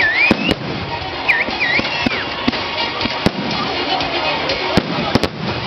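Firecrackers going off: about eight sharp bangs at irregular intervals over a steady din of background music and noise.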